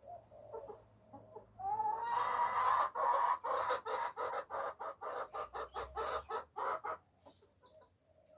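Backyard chicken calling loudly: one drawn-out rising note, then a rapid run of about three to four clucks a second for some four seconds, after a few softer clucks at the start.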